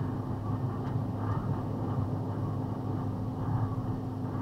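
Box truck driving, heard inside the cab: steady engine and road noise with a constant low hum.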